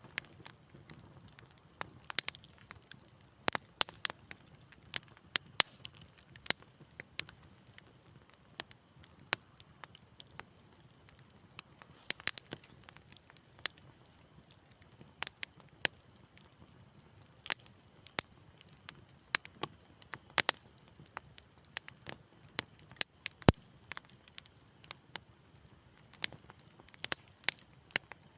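Fireplace fire crackling: irregular sharp pops and snaps, several a second, over a faint low hiss.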